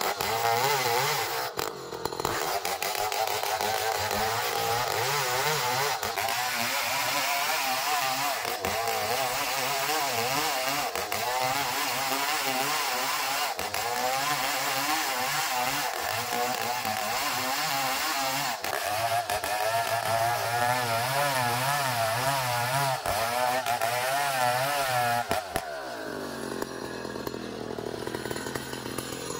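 Band sawmill cutting a long ulin (Borneo ironwood) log, a steady machine drone with a wavering pitch. About 25 seconds in the pitch falls away and the sound gets quieter.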